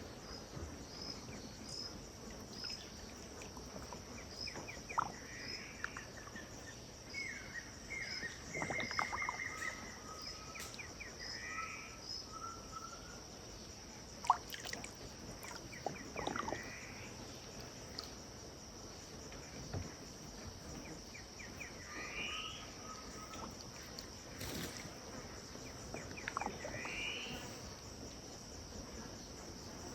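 Riverside wetland ambience: several birds call in repeated chirping phrases over a steady high insect drone, with a quick run of short high notes in the first dozen seconds. A few short sharp sounds stand out, the loudest a little before the middle.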